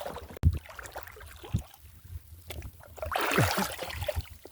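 Water splashing and sloshing around a person working in shallow water, with a sharp knock about half a second in and a louder splashing rush about three seconds in.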